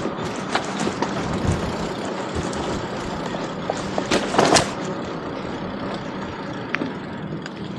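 Steady motor vehicle engine noise with a low hum, scattered small clicks, and one short loud hiss about four seconds in.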